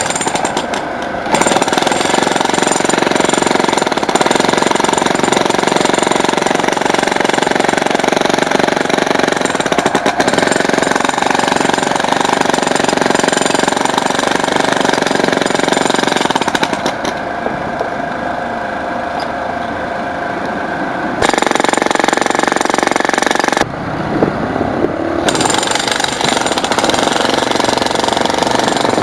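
Jackhammer chiselling into concrete: continuous rapid hammering. It goes duller and softer for a few seconds past the middle, then hammers hard again.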